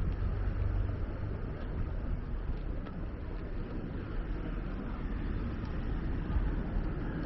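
Steady outdoor city ambience with a constant low rumble and no distinct events.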